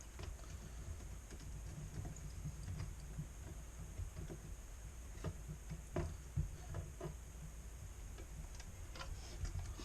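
Faint, irregular clicks and taps from handling an automotive fuse-box circuit board and small tools on a workbench, over a low steady hum.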